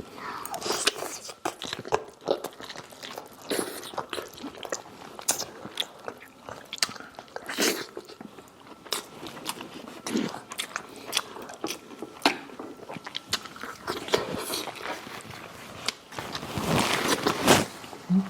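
Close-miked biting and chewing of crispy fried chicken, a run of sharp crunches and wet chewing clicks, with a louder, denser crunching bite near the end.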